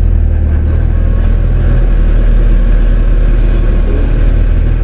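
Land Rover Defender engine running steadily, heard from inside the cab as a loud, low drone.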